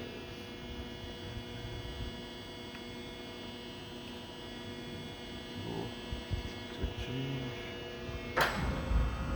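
Hurco VM10i vertical machining center humming steadily with its power on, with a few soft knocks, then a sharp clunk near the end as a tool is put into the spindle.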